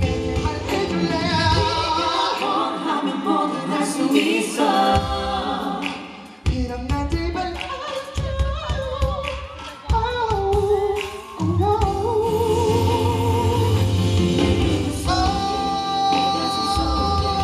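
Live pop concert music with singing. The bass drops out for a few seconds twice and comes back fuller about two-thirds of the way through.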